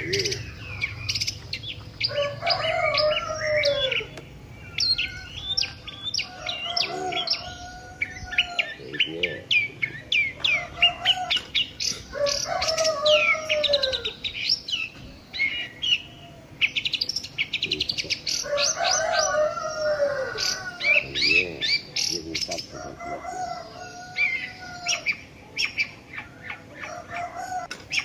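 Small birds chirping rapidly and continuously, with a lower drawn-out call recurring every few seconds.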